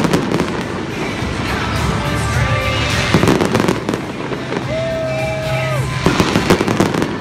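Aerial fireworks going off in three clusters of sharp bangs and pops, near the start, about three seconds in and about six seconds in. Music with long held notes plays underneath.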